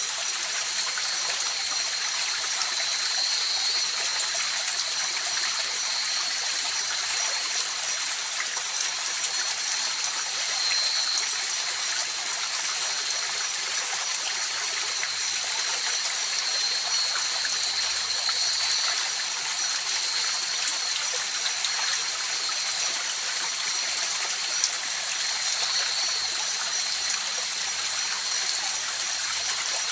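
A river or stream flowing steadily, with an even rushing and trickling of water. A thin, steady high-pitched tone runs above the water.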